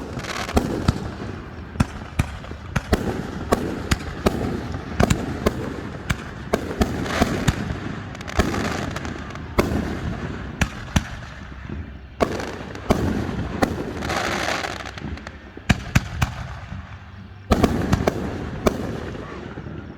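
Fireworks display: many aerial shells bursting in quick succession, sharp bangs several times a second at times, with crackling and sizzling between them.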